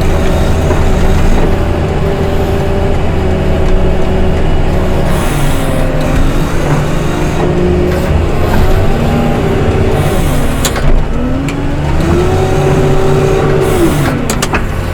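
Diesel engine of a heavy snow-removal machine running under load, its pitch falling and rising again several times as the throttle is eased and opened while it works.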